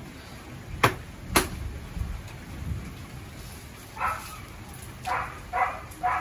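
Heavy rain falling steadily, with low thunder rumbling. Two sharp cracks half a second apart come about a second in, and a dog barks four short times in the second half.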